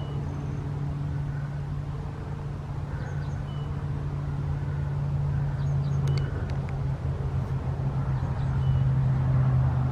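A steady low motor hum that grows gradually louder toward the end, with a few faint short high chirps over it.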